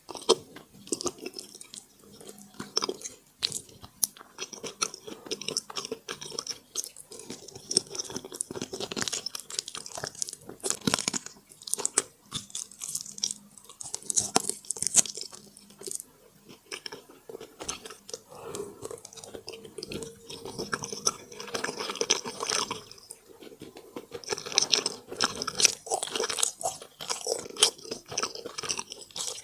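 Close-miked eating sounds: continuous chewing and biting, made of many small, sharp, irregular clicks and smacks.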